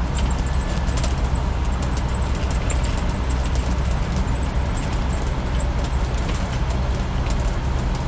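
Land Rover 90's 300Tdi 2.5-litre four-cylinder turbodiesel running steadily while driving, heard from inside the soft-top cab along with road and wind noise and occasional small ticks and rattles.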